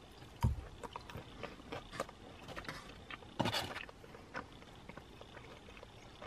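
Faint chewing of food, with small scattered mouth clicks and a brief louder rustle about three and a half seconds in.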